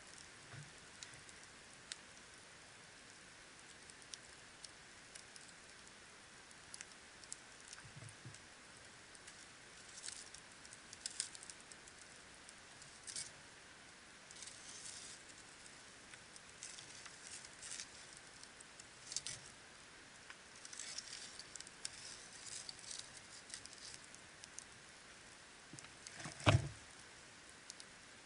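Wood campfire crackling: scattered small pops and short bursts of crackle over a faint hiss, with one louder pop near the end.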